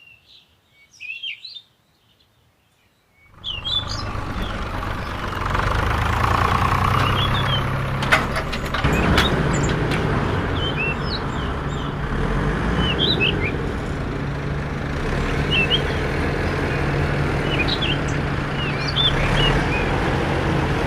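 Birds chirping. About three seconds in, a steady mechanical running noise with a low hum starts and carries on, and the birds keep chirping over it.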